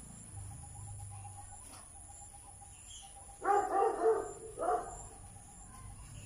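Animal calls: a quick run of short, pitched calls about three and a half seconds in, and one more about a second later.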